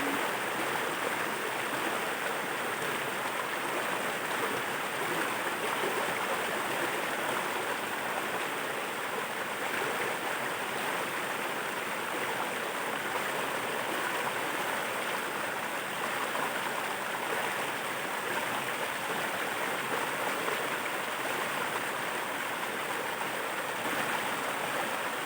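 Water rushing steadily over a waterfall, an unbroken, even hiss.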